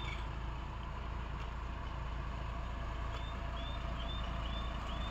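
Tata truck's diesel engine idling steadily. Near the end a run of about six short high chirps repeats roughly twice a second.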